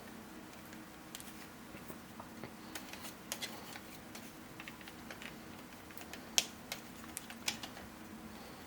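Light, irregular plastic clicks and taps as 3D-printed puzzle pieces are handled and pushed together to snap into place, the sharpest click about six seconds in, over a faint steady hum.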